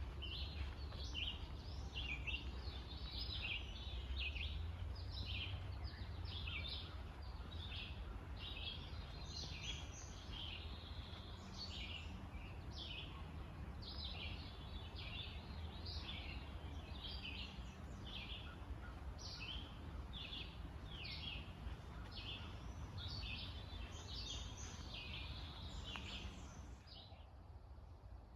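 Several birds chirping and singing together in a dense, continuous chorus of short high notes over a low rumble. It cuts off suddenly near the end.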